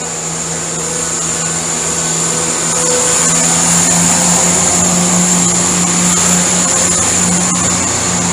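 CrossCountry diesel multiple unit pulling out of the platform, its underfloor diesel engine running under power with a steady engine note that grows louder towards the middle and eases off near the end.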